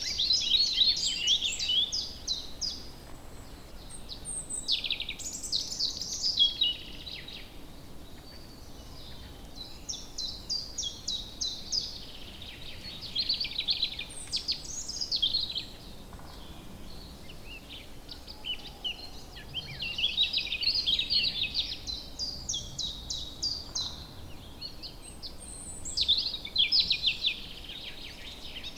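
Woodland birds singing: bursts of rapid, high chirping song phrases every few seconds, with quieter chirps in between over a faint steady background hiss.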